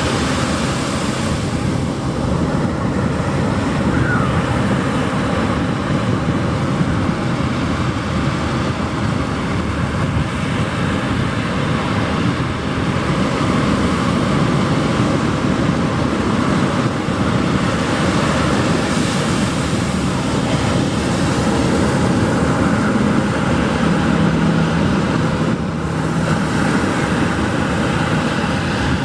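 Pacific surf breaking on a sandy beach: a steady, continuous rush of waves washing ashore. A faint low hum joins in near the end.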